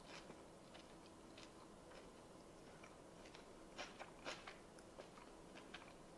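Near silence with faint mouth sounds of a person chewing a bite of chicken: a few soft, scattered clicks, the clearest two around four seconds in.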